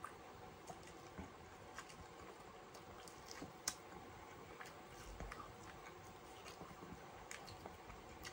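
Faint chewing and biting on fried corn on the cob, heard as scattered soft clicks from the mouth and kernels.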